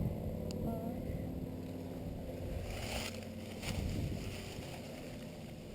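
Low, steady rumble of wind on the microphone, with faint rustling and a single small click.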